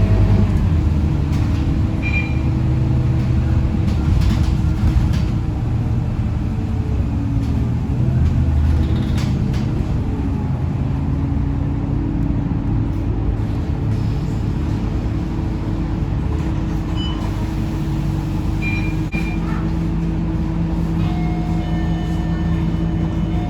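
Interior of a Scania K230UB city bus on the move: its engine and drivetrain run continuously under road noise, the engine note rising and falling as the bus pulls away and changes gear. A steady electronic tone sounds from about 21 seconds in.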